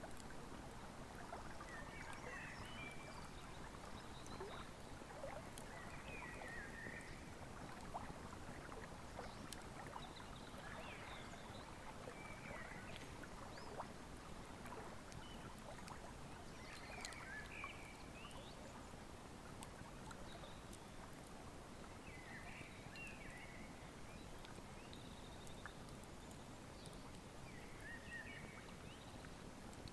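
Open wood fire crackling with scattered faint pops over the steady rush of a flowing river. A bird sings short phrases every few seconds.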